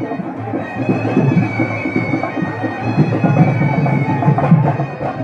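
Live music from loud reed wind pipes playing a melody over a steady held drone, dense and continuous.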